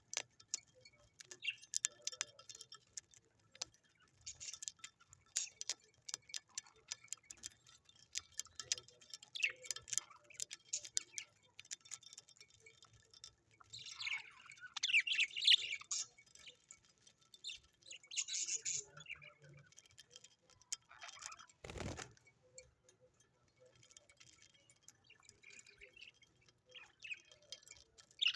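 Small birds chirping and twittering in short bursts, loudest in the middle, over many sharp clicks and taps. A single dull thump about three-quarters of the way through.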